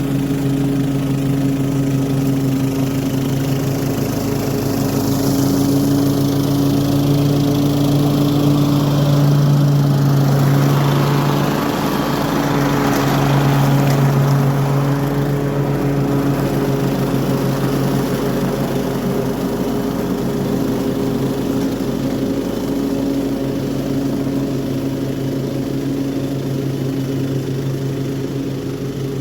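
Toro HDX 30-inch self-propelled mulching lawn mower running steadily under load while mowing grass, with a brief swell of broader noise near the middle.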